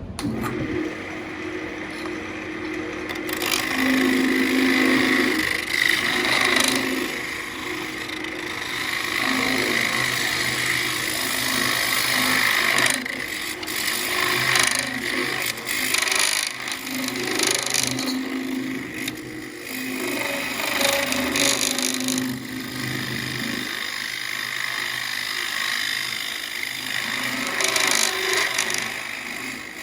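Central Machinery wood lathe spinning a ambrosia maple bowl blank while a hand tool works the wood, giving a harsh hiss that swells and eases in uneven passes with short breaks, over a steady low motor hum.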